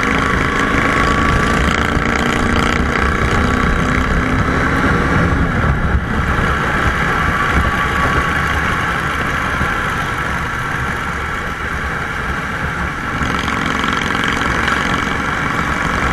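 Motorcycle engine running steadily while riding on a highway, under a continuous rush of wind and road noise.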